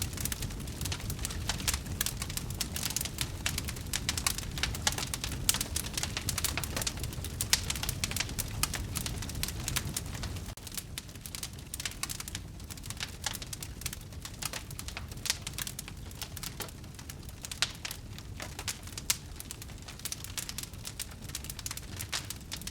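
Wood fire crackling: a dense run of sharp pops and snaps over a low rumble that drops away about ten seconds in.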